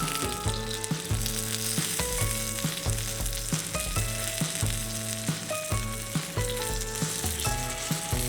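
Food sizzling and frying in a hot pan, a steady hiss, under background music with a moving melody and bass line.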